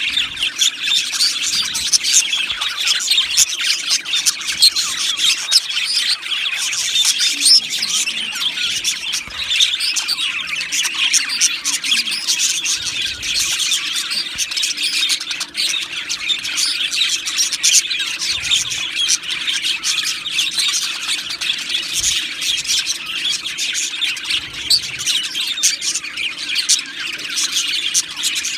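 A colony of budgerigars chattering, warbling and chirping together, a dense continuous flock chorus with many overlapping calls.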